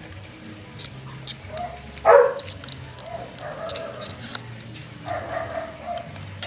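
A dog barks once, loudly, about two seconds in, then makes quieter drawn-out whining sounds. Sharp metallic clicks sound at intervals.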